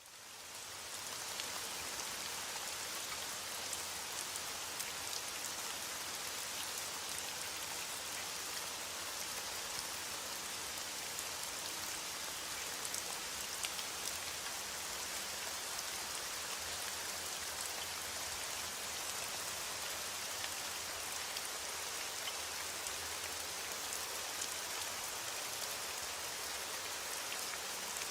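Steady rain falling, an even hiss with scattered ticks of individual drops, fading in over the first second or so.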